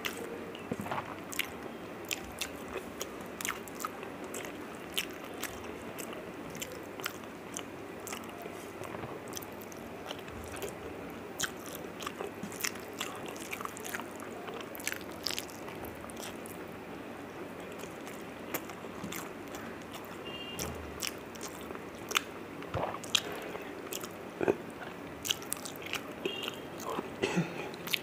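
A person eating rice and fish curry by hand, picked up close: wet chewing with many irregular sharp lip smacks and mouth clicks, busier near the end.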